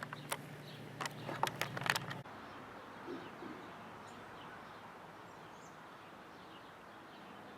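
Quiet outdoor ambience with faint bird chirps. A run of sharp clicks and a low steady hum fill the first two seconds, then stop abruptly.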